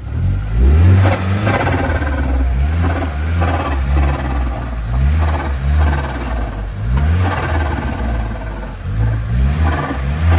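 Car engine running and revving, its pitch rising and falling over and over.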